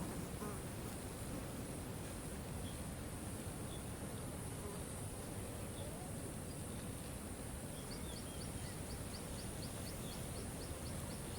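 Waterfall's steady rush of falling water under a steady high-pitched buzz. From about eight seconds in, a rapid string of short high chirps, about five a second, joins it.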